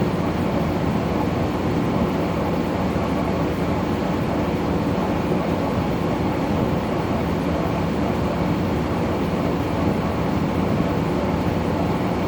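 An LG 12,000 BTU room air conditioner running, its compressor and fan making a steady hum.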